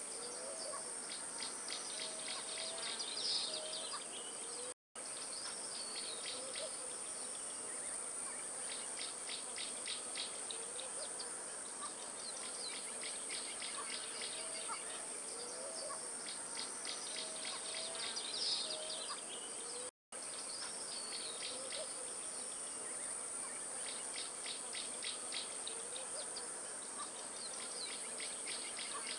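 Nature ambience of insects chirping in rapid pulsing trains over a steady high-pitched hum, with occasional short bird chirps. The same stretch repeats about every 15 seconds, with a brief total dropout at each join, near 5 s and 20 s, so it is a looped background track.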